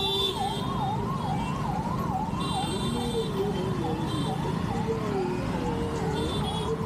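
Emergency-vehicle siren in fast wail, sweeping up and down in pitch about twice a second, over the low rumble of traffic. A second, lower wavering tone joins about three seconds in.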